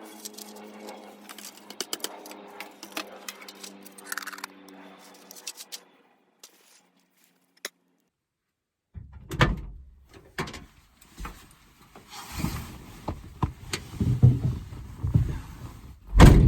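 Quiet music with light clicks fades out, then, after a few seconds of silence, a run of irregular knocks and thumps begins, the loudest a heavy thump near the end.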